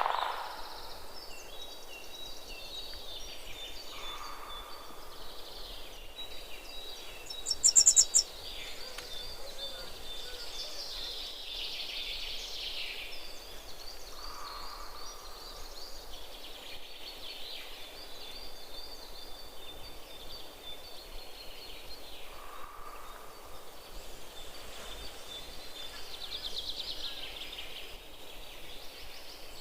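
Several wild birds chirping and calling, with a short loud, high, rapid trill about eight seconds in and a lower call repeating about every nine or ten seconds.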